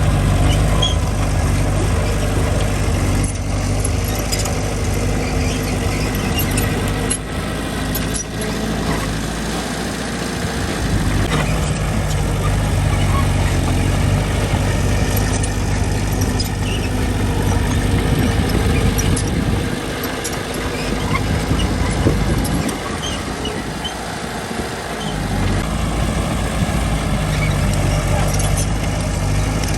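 Heavy diesel engine of construction machinery running steadily under load. Its low hum eases off twice and then picks up again, with a few faint knocks along the way.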